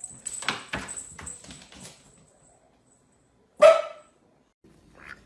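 A dog barks once, short and loud, about three and a half seconds in, after a couple of seconds of softer scuffling and knocking.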